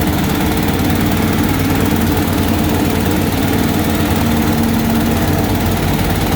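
Rice-bran grinding mill and its engine running at a steady speed, giving a loud, even mechanical drone.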